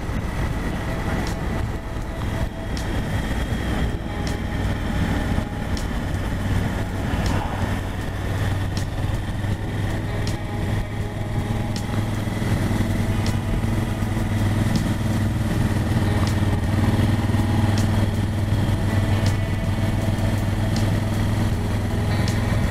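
Motorcycle engine running steadily under way, with wind rush, heard from the rider's position; the engine drone gets slightly louder about halfway through.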